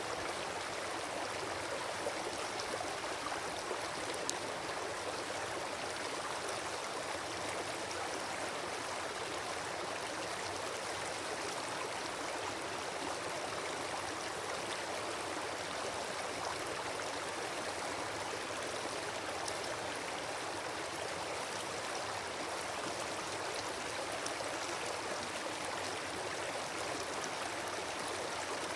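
Campfire burned down to glowing embers, with a few faint sharp ticks and crackles over a steady rushing hiss.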